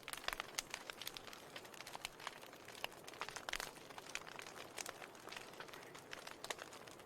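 Wood fire in a fireplace crackling: irregular sharp pops and snaps over a soft steady hiss of burning.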